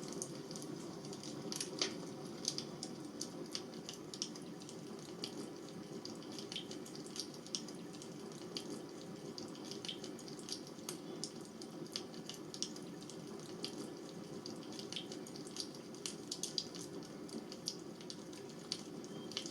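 Bonfire crackling: irregular sharp pops and snaps over a steady low rush of flames.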